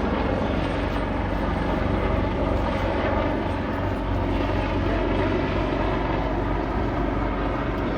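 Police helicopter's rotor beating and engine running steadily.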